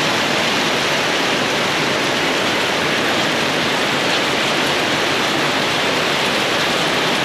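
Heavy tropical downpour: a steady, loud rush of rain.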